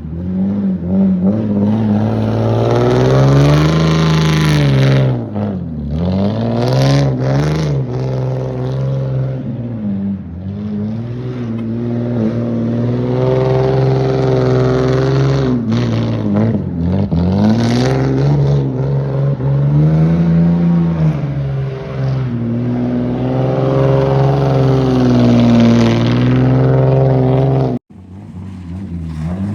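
Car engine revving up and falling back again and again, its pitch rising and dropping in long swells. Near the end it cuts off sharply and starts again.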